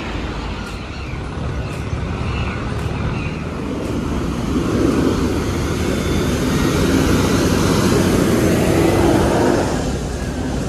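Street traffic noise. A motor vehicle passes close, growing louder from about halfway through and easing off near the end.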